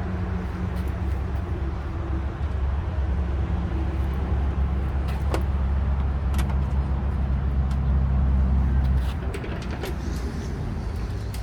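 Steady low rumble of a running engine or motor, louder until about nine seconds in and then easing off, with a few light clicks and taps over it.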